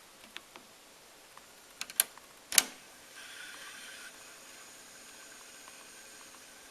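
Pioneer CT-F650 cassette deck's transport buttons clicking, a few light clicks about two seconds in and one sharp click a little later, followed by a faint steady mechanical whirr.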